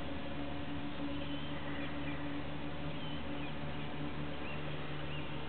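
Small birds chirping, short high calls repeated every second or so, over a steady low hum and outdoor background noise.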